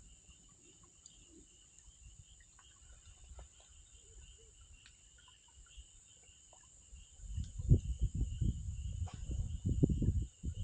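Steady high chirring of insects with scattered small crackles from a wood campfire. About seven seconds in, a louder low rumbling buffeting starts and goes on through the end.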